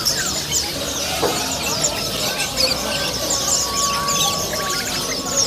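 Many caged songbirds chirping at once, a dense run of short, high, overlapping calls, with a brief held whistle-like note in the middle.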